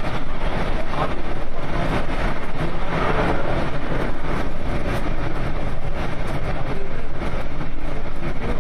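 Passenger train running: a steady loud noise with many small knocks and rattles throughout.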